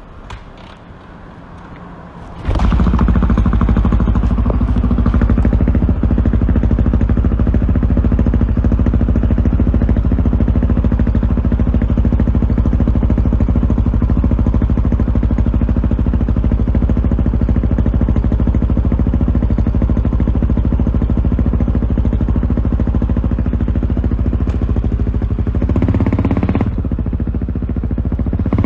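Single-cylinder KTM motorcycle engine firing up about two and a half seconds in and idling steadily and loudly, then revving with rising pitch near the end.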